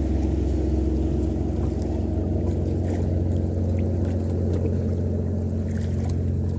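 Small outboard motor on a sailing canoe, running steadily at a constant speed.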